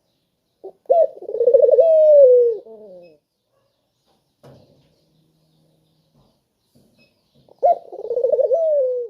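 A puter dove cooing twice: each call opens with a short note, rolls into a rapid trill and ends in a long falling coo. The second call comes about five seconds after the first and is cut off at the end.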